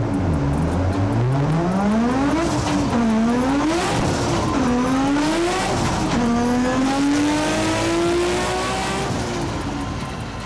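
Nissan RB26 twin-turbo straight-six in a drift car revving hard: its pitch climbs and drops back about four times in quick succession, then climbs slowly once more and fades away near the end.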